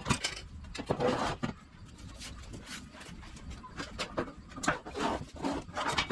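Loose steel exhaust pipes and mufflers clunking and scraping as the unbolted system is worked down from under the car, in irregular knocks and short rubs.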